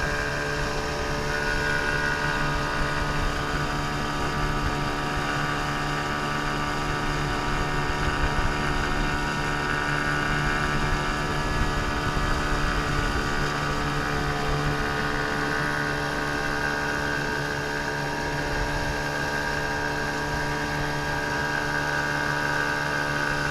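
A 15 hp outboard motor running at a steady speed, with an even engine drone and a higher whine over it.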